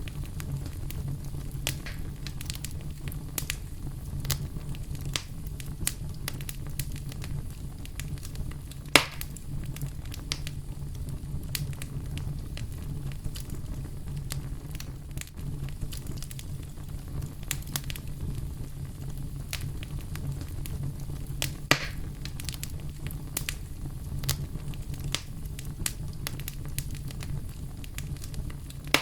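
Campfire burning with a steady low rumble and frequent small crackles, and two sharper pops about nine and twenty-two seconds in.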